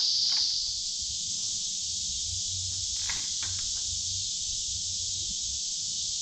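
Steady high-pitched insect chirring, with a few faint clicks about three seconds in.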